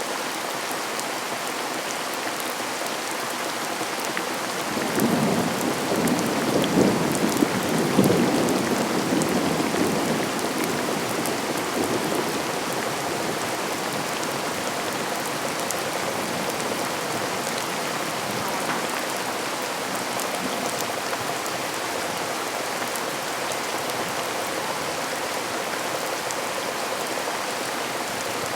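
Steady heavy rain pattering on surfaces. About five seconds in, a low rumble of thunder swells for several seconds and fades away under the rain.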